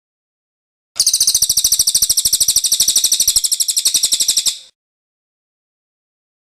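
Cililin bird singing its rolling song (ngerol): a fast, even trill of high notes, about fourteen a second, that starts about a second in and stops after nearly four seconds.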